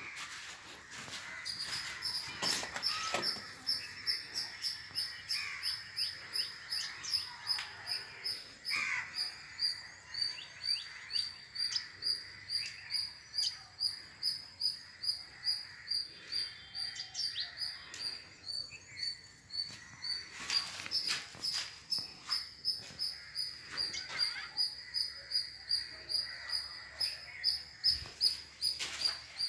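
A bird chirping over and over, a high, sharp note about twice a second, keeping an even rhythm.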